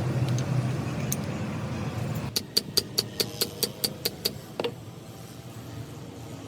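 A quick, even run of about ten sharp clicks, about five a second, with one more click just after, from hand-tool work on metal gearbox parts. Before the clicks there is a low, steady workshop background.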